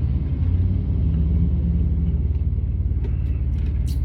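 Semi truck's diesel engine idling, a steady low drone with an even throb that does not change.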